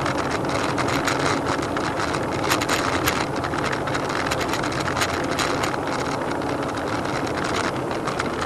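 Road vehicle's engine and road noise picked up by a dashcam: a steady, dense rumble with many sharp clicks and rattles through it.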